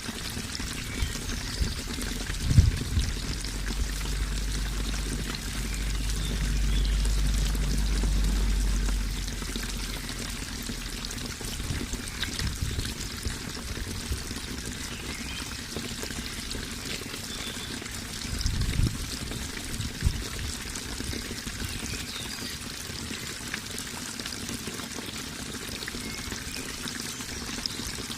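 Water flowing and trickling steadily. A low rumble rises under it for several seconds, and a couple of dull thumps are heard.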